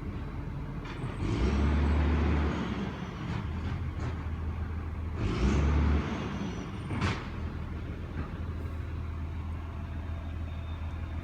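Diesel compost collection truck's engine running, revving up twice, with a short sharp air hiss about seven seconds in.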